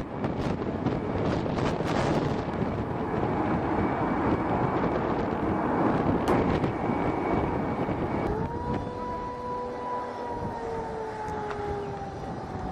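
Loud rumble of an aircraft with wind buffeting the microphone. About eight seconds in, a steady whining tone starts and slowly sinks in pitch.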